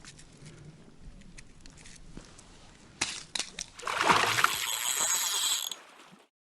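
A few sharp clicks, then water splashing and sloshing for about two seconds, which cuts off abruptly.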